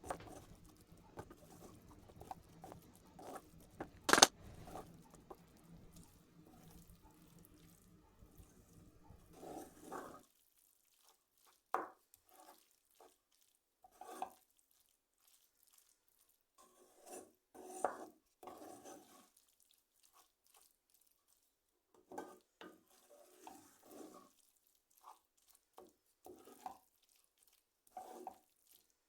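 A spoon stirring and scraping a thick onion and tomato-puree mixture in a pan, in short scattered strokes and knocks. A low hum runs underneath and cuts off about ten seconds in, and there is a sharp click about four seconds in.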